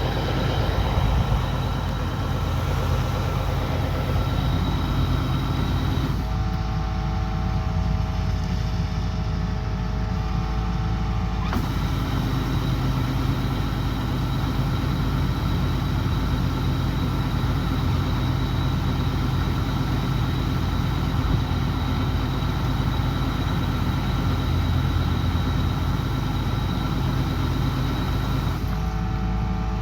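Kubota DC105X combine harvester's diesel engine and threshing machinery running steadily under load. The sound changes abruptly about six seconds in, changes back about five seconds later and changes again near the end.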